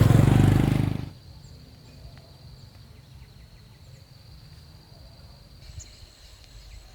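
A small motor running loudly, which fades out about a second in. Then quiet outdoor ambience with a faint, steady high-pitched insect drone that gets stronger near the end.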